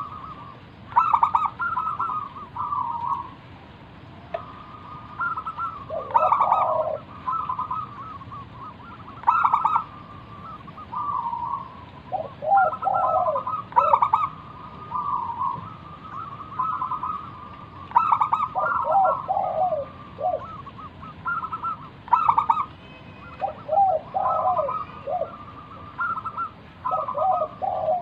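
Zebra dove (perkutut) singing its cooing song: phrases of rapid, stuttering coos repeated every second or two, some phrases ending in lower notes.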